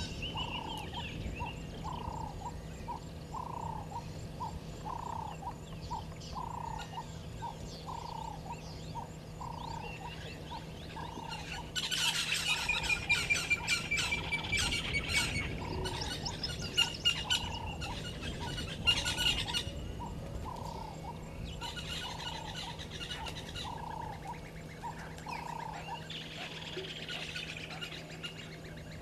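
Wild birds calling in the bush. One note repeats steadily, a bit more than once a second, through most of the stretch. Between about 12 and 20 s a louder burst of chattering calls comes in, with a high trill sliding down in pitch.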